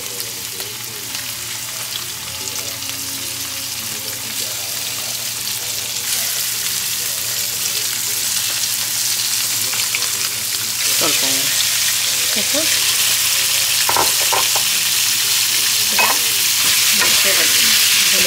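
Raw shrimp frying in hot oil with minced garlic in a pan, a steady sizzle that gets louder in steps about six and eleven seconds in as more shrimp go in. A few light knocks come in the second half.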